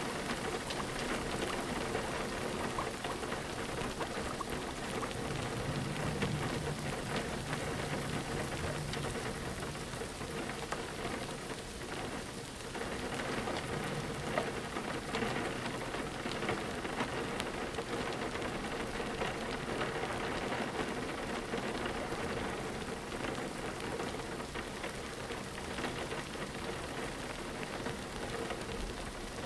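Steady rain falling on a window, a continuous even hiss dotted with many small drop ticks.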